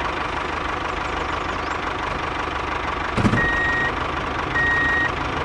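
A vehicle engine running steadily under a broad hiss. A dull thump comes about three seconds in, and then a reversing alarm beeps twice, each beep a steady high tone about half a second long.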